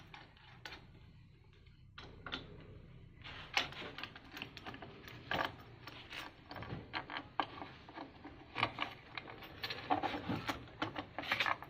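Irregular clinks, knocks and rattles of metal parts and tools being handled, sparse at first and busier from about three seconds in.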